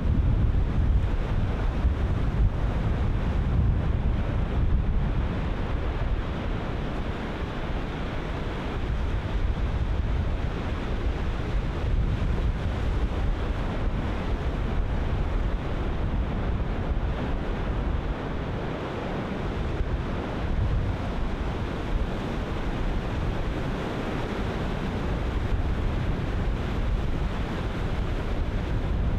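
Ocean surf breaking continuously, with wind buffeting the microphone and adding a steady low rumble.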